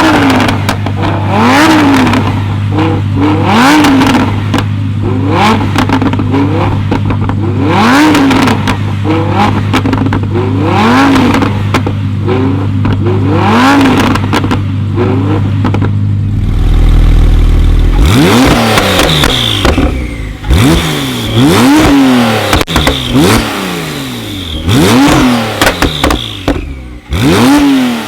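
Tuned car engines with performance exhausts, revved in quick blips over and over, the pitch climbing and dropping with each blip and a steady idle underneath. About two-thirds of the way in, a second round of faster revs follows, with exhaust crackles and pops between the blips.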